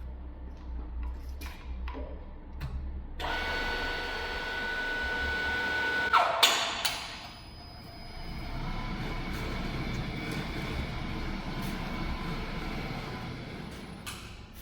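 A motor-driven machine running with a steady whine and a few clunks in a workshop. A cluster of loud knocks comes about six seconds in, then the machine runs on and stops near the end.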